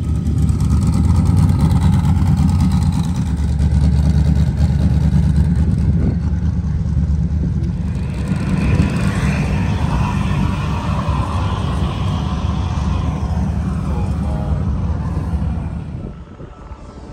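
Car engine running loudly with a deep, steady rumble, dropping away about a second before the end.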